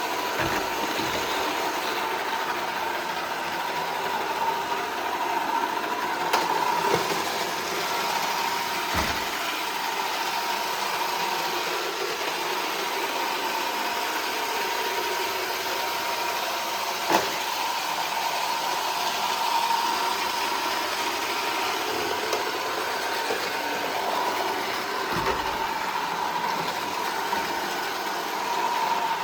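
iRobot Roomba 440 robot vacuum running, a steady motor whir with a constant tone, broken by a few short knocks.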